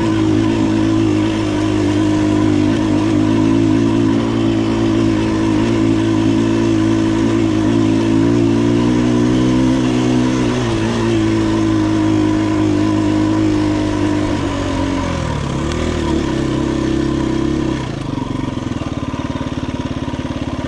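KTM 250 EXC-F dirt bike's single-cylinder four-stroke engine running at a steady pitch under way. About fourteen seconds in, the pitch drops as the throttle eases, and near the end it settles into a lower, quieter run.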